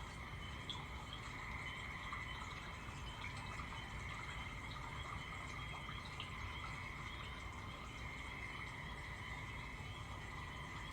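Steady night chorus of frogs and insects, one constant high trill over another lower one, with a few faint ticks.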